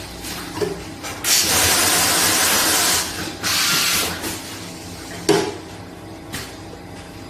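Automatic vacuum and nitrogen-flush tea-packing machine running: a loud hiss of air or gas lasting about two seconds, then a shorter hiss, over a steady hum. A sharp clack from the mechanism comes a little after the middle.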